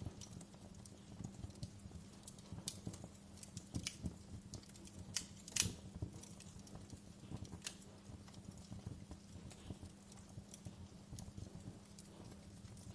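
Wood fire crackling in a fireplace, with irregular sharp pops and snaps, the loudest about five and a half seconds in, over a steady low hum.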